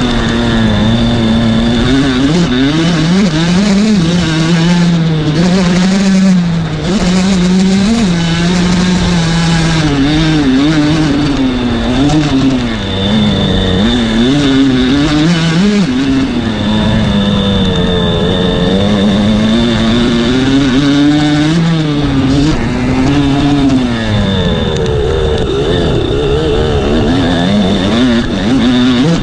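Kawasaki KX85 two-stroke dirt bike engine running hard while being ridden, its pitch rising and falling constantly with throttle and gear changes.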